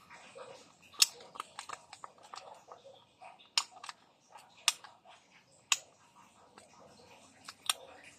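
Handling noises from a skincare moisturizer container: a string of sharp plastic-like clicks and light taps. About five loud clicks are spread over several seconds, with smaller ticks and faint rustling between them.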